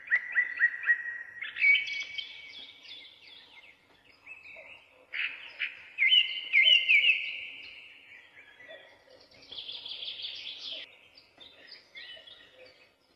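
Songbirds chirping and singing in bursts of quick, repeated trilling notes, with short pauses between the phrases.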